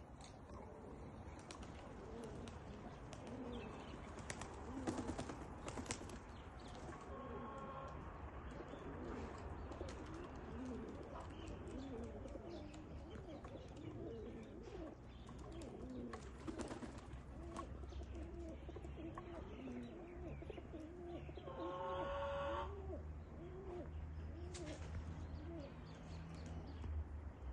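Domestic pigeons cooing over and over, short rising-and-falling low calls, with scattered light clicks and one brief higher call about three-quarters of the way through.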